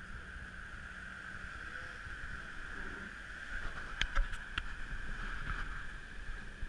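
Steady rush of strong wind and water aboard a Lagoon 620 sailing catamaran running downwind, with a low rumble of wind buffeting the microphone. A few sharp knocks come about four seconds in.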